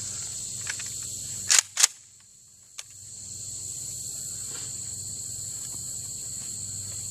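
Steady chorus of crickets and other insects, broken about a second and a half in by two loud, sharp bangs roughly a quarter second apart; after them the sound drops away for about a second before slowly coming back, with one faint click in between.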